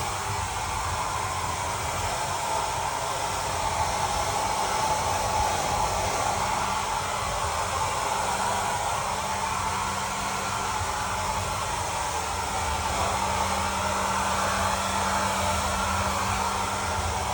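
Handheld blow dryer running steadily, a rush of air with a faint steady hum underneath.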